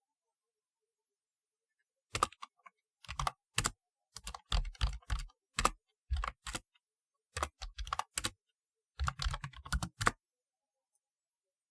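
Typewriter-style keyboard being typed on in short, uneven bursts of sharp key clicks with brief pauses between them. The typing starts about two seconds in and stops shortly before the end.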